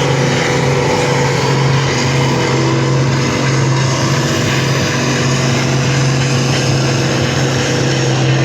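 Stock pulling tractor's engine running hard at a steady pitch under full load as it drags the weight-transfer sled.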